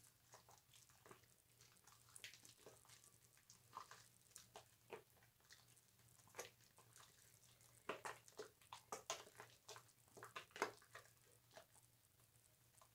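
Faint wet squishing and crackling of bar soap being worked into a lather, irregular clicks that grow thicker and louder for a few seconds past the middle.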